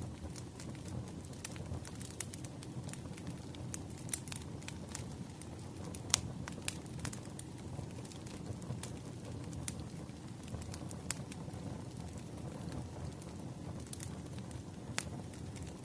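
Wood fire crackling, with irregular sharp pops and snaps over a low steady rumble of flames.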